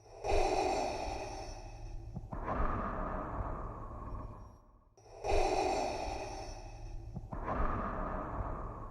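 Darth Vader's mechanical respirator breathing: a slow, regular in-and-out hiss, each breath in two phases, about two full cycles. A steady low hum runs beneath.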